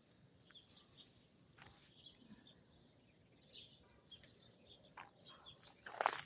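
Faint bird chirps, scattered short calls, over quiet outdoor background noise, with a few sharp crunches near the end.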